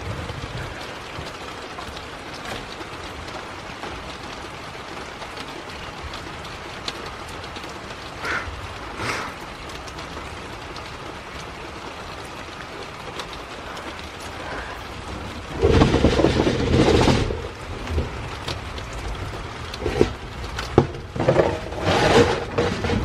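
Steady rain falling, with a loud rumble of thunder about two-thirds of the way in and more loud bursts of it near the end.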